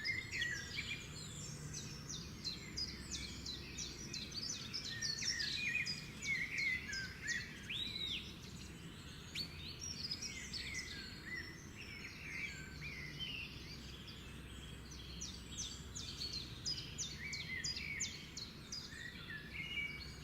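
A chorus of songbirds chirping, trilling and whistling, many short rapid calls overlapping, over a steady low background rumble.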